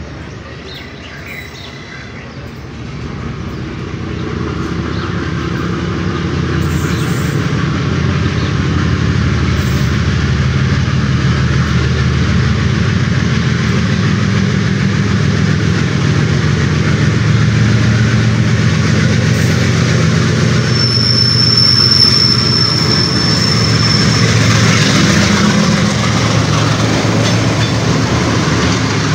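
A Pakistan Railways Green Line Express passenger train, a diesel locomotive hauling green coaches, approaching and passing close by. Its engine and rumble grow louder over the first several seconds, then the coaches go by with a steady rumble and clatter. About two-thirds of the way through, a high steady squeal rings for about three seconds.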